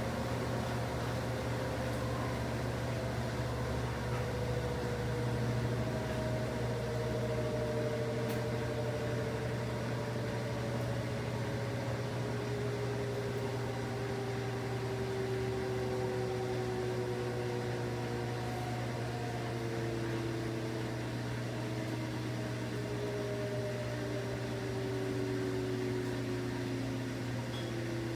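Washing machine running with a steady low hum and a faint whine, several faint tones gliding slowly downward over the course of it.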